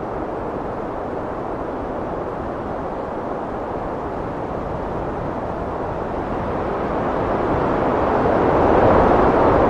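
Heavy wind blowing steadily, swelling louder in a gust near the end.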